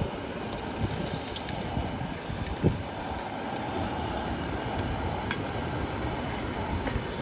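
Steady roar of two gas canister stoves, a Firemaple Mars and a Soto WindMaster, burning full out under pots of water in gusty wind, with wind rumble on the microphone. A brief knock comes about two and a half seconds in, and a sharp click about five seconds in.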